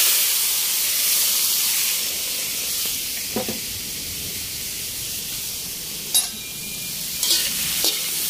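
Shrimp pieces with onion and garlic sizzling hard in a smoking-hot wok of oil and butter, the butter already burning from too much heat: a dense steady hiss that eases a little over several seconds. A few short scrapes of the spatula against the wok come through near the middle and the end.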